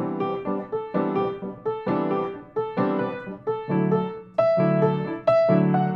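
Piano playing an original composition: chords struck about once a second, each ringing and fading before the next, growing a little louder about four seconds in.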